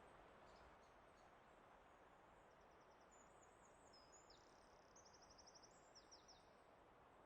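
Very quiet forest ambience: a faint steady hiss, with a small songbird singing high, rapid trills from about a third of the way in for roughly four seconds.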